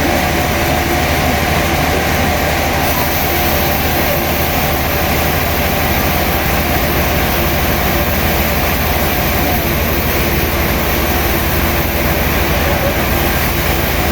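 Sawmill machinery running steadily: a loud, even mechanical noise over a constant low hum.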